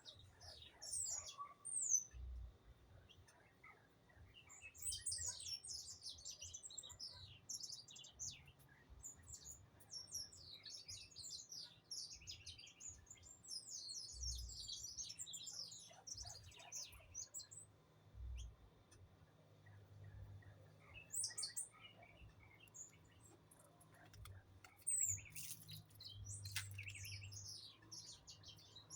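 A flock of small birds chirping, many short high calls overlapping in busy bursts, with a few dull low thumps.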